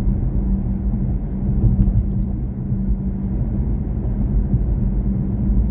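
Steady low road and tyre rumble inside the cabin of a moving BMW i4 M50 electric car, with a steady low hum under it.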